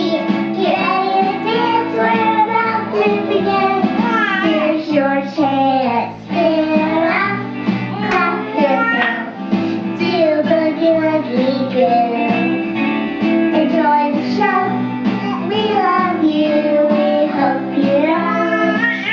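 Children's song: a child's voice singing a melody over a steady instrumental accompaniment that includes guitar.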